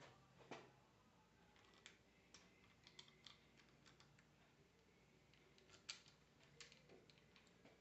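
Near silence broken by faint, scattered light clicks and taps of small parts being handled.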